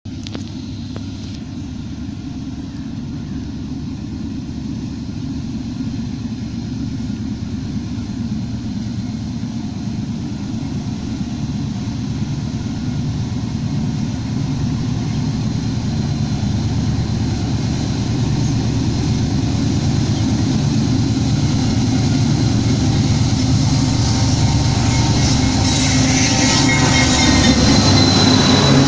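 Diesel locomotive engine running with a steady low throb, growing gradually louder as the train approaches. Wheel and rail noise builds in over the last few seconds.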